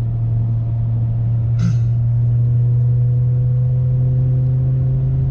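BMW E60 M5's 5.0-litre V10 with a custom exhaust cruising at low revs, heard from inside the cabin as a steady deep drone. The revs creep up slightly in the second half.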